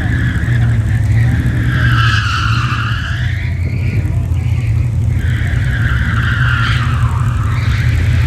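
Car tires squealing through hard cornering, two long wavering squeals that rise and fall in pitch, over a steady low rumble.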